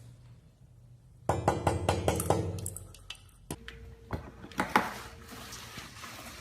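Hard objects clattering and clinking, like dishes or glassware: a quick run of rattling clatters, then a few separate knocks with a faint ringing.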